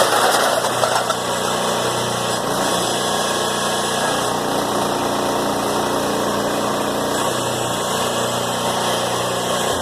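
A baler's motor running steadily at an even pitch while it compresses a load of scrap metal and cans. The sound eases off near the end.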